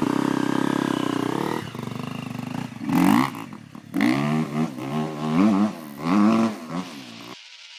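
Motocross bike engine running hard, its pitch rising and falling several times as the throttle is worked, then cutting off abruptly near the end.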